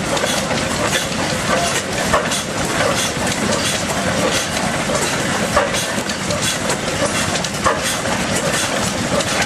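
Austral 6 HP stationary engine running and driving an Ajax water pump, with a steady rhythmic mechanical clatter.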